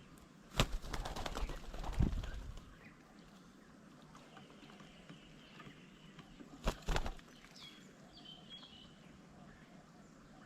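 Birds' wings flapping in two bursts, a longer one about half a second in and a short one near seven seconds, followed by a few short high chirps.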